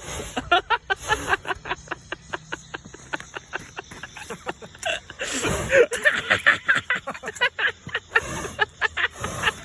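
Fire crackling with many irregular sharp pops, from a campfire or the burning lantern. A louder rush with a brief vocal sound comes about halfway through.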